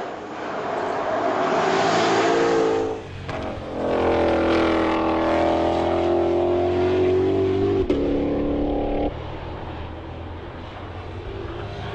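Ford Mustang GTD's supercharged 5.2-litre V8 running hard at speed. The engine note builds over the first few seconds, dips briefly near three seconds, then holds loud and steady before dropping away after about nine seconds.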